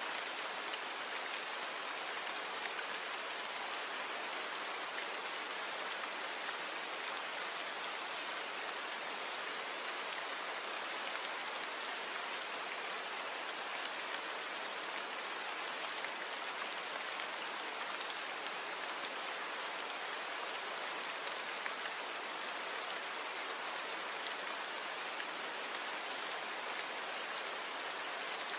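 Steady rain falling, an even hiss made of many fine drop hits, with almost no low rumble. It is recorded natural rain with the background noise cleaned out.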